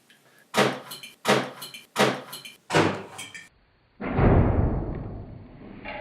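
Four sharp, ringing knocks about 0.7 s apart, then a loud deep thud that dies away slowly, loud enough to startle; the men take it for their microwave closing.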